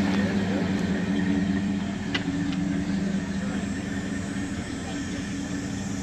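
A vehicle engine idling with a steady low drone, and one short sharp click about two seconds in.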